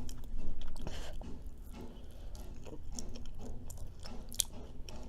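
Close-miked chewing of a soft brownie with cheesecake and berries: wet mouth sounds and small clicks of the lips and tongue, at an irregular pace.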